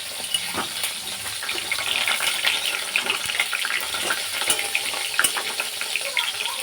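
Food frying in hot oil in a pan: a steady sizzle with dense fine crackling as the oil spatters.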